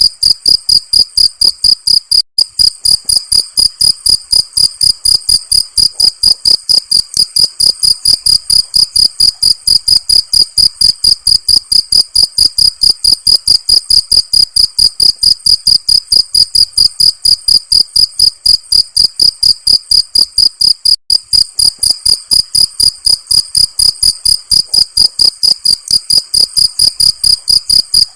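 Cricket chirping in a loud, fast, perfectly even run of high-pitched pulses, broken by two very brief gaps.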